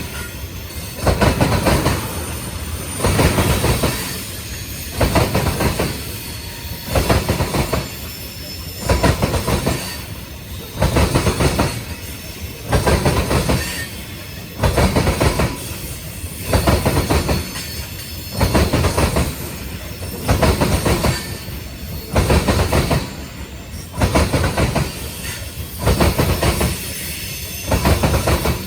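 Freight train cars rolling past, their wheels clattering over a rail joint in a steady rhythm, about one loud burst every two seconds as each car's trucks cross it.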